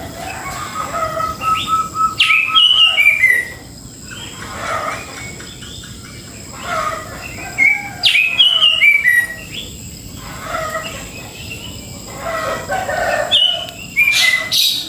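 Songbirds singing and chirping. A falling run of clear notes comes about two seconds in, again about eight seconds in and near the end, with shorter chirps in between.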